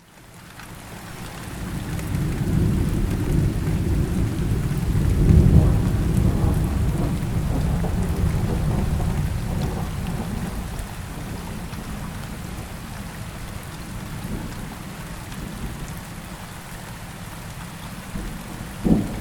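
Steady rain with a long roll of thunder: a deep rumble swells over the first few seconds, peaks about five seconds in and fades away. A short, sharp crack comes near the end.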